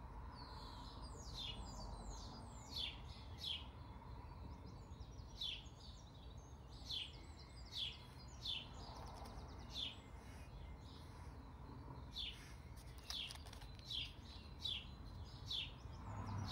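Faint bird chirps: short, high, downward-sweeping calls repeated every second or so, sometimes in quick runs of two or three.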